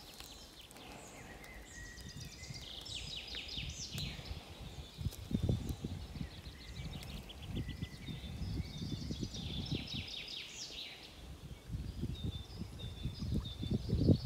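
Songbirds singing, with trills and quick runs of repeated chirps, over an irregular low rumble.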